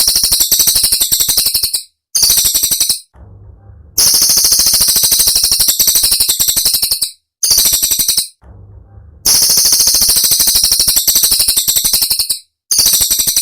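Cililin songbird giving its 'tembakan': sharp, high-pitched rattling trills of very rapid repeated notes, in bursts of one to three seconds with short pauses between them.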